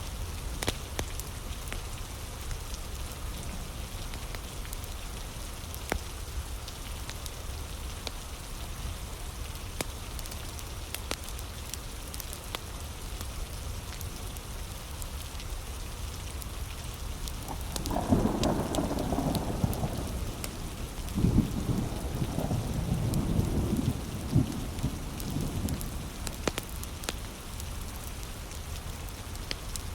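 Heavy rain falling steadily, with scattered sharp pops. A little past the middle, a roll of thunder rumbles for about eight seconds.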